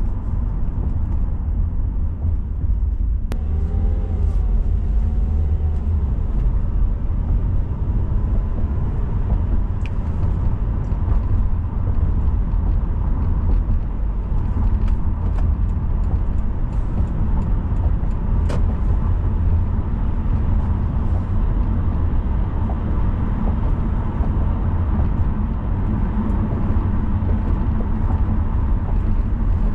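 Car driving on city roads: a steady low rumble of tyres and engine, with a few faint clicks and a faint wavering tone a few seconds in.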